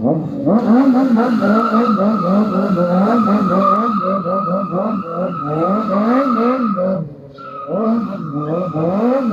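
A car engine revved in quick, repeated throttle blips, its pitch rising and falling several times a second over a steady high whine, with a short drop about seven seconds in.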